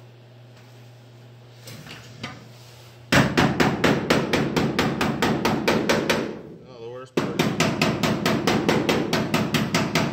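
Rapid hammer blows on thin sheet metal, about five or six a second, in two runs of about three seconds each with a short break between. The sheet-metal patch panel for a pop-up fuel door is being hammered down flat ahead of spot welding.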